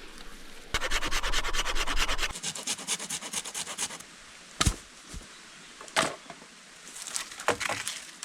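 Dry wood or plant material being handled for fire tinder: a fast run of rubbing, scraping strokes for about three seconds, then a few separate sharp snaps.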